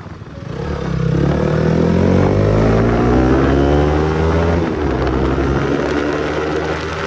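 Bajaj Pulsar NS200 single-cylinder engine running through an aftermarket Akrapovic exhaust, accelerating with its pitch rising over about four seconds, then holding a steady speed.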